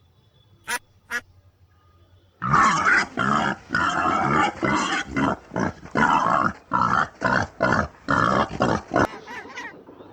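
An animal calling: two short sharp calls, then from about two seconds in a fast, loud series of calls that breaks off about a second before the end.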